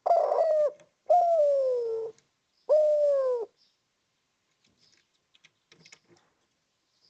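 Spotted dove (derkuku) giving its three-part coo: a short coo, a longer coo that falls in pitch, then a final coo, all over in about three and a half seconds.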